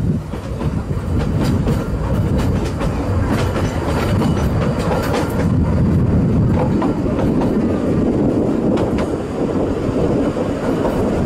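Narrow gauge train carriage running along the track, heard from the open carriage: a steady low rumble with clicks and knocks from the wheels over the rail joints, thickest in the first half.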